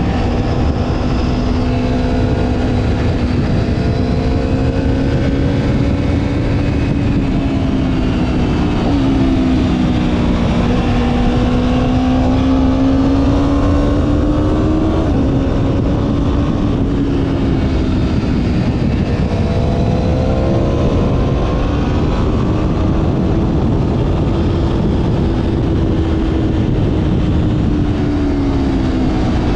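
Motorcycle engine running at a steady cruise, its pitch drifting gently up and down with a couple of small steps, under heavy wind rush on the microphone.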